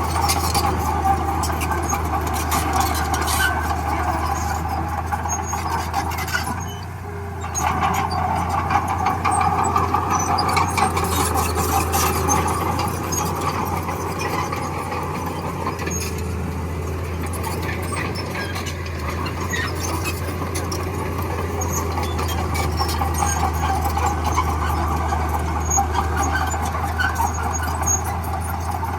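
Bulldozer at work: its diesel engine runs steadily with a continuous high metallic grinding from the tracks. The sound eases briefly about seven seconds in, then picks up again.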